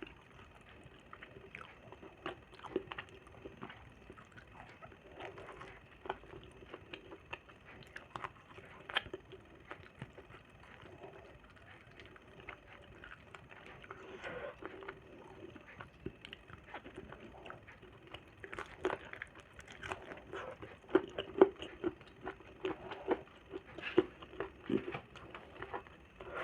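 A person eating: irregular wet clicks and smacks of chewing and mouth sounds, growing busier and louder in the last third.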